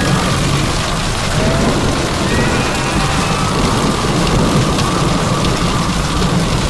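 Heavy rain pouring steadily in a thunderstorm, with a deep continuous rumble underneath.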